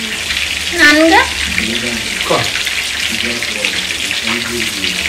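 Chicken kebab pieces frying in hot oil, a steady sizzle that runs under everything. About a second in there is a brief, loud, wavering voice-like sound, and faint low voices are heard later.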